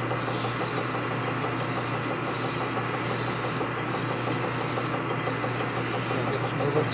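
Worn, dry 180-grit abrasive stone rubbed back and forth on a turning metal part, a steady rasping that eases off briefly every second or two as the stroke changes, over a steady machine hum.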